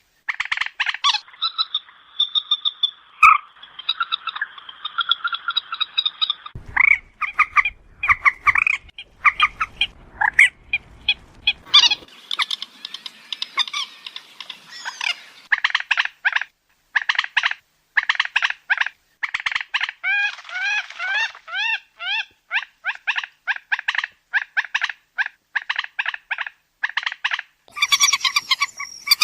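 Moorhen calling: rapid runs of short, clipped notes, with a few longer held notes near the start. A low rumble sits under the calls for several seconds in the middle.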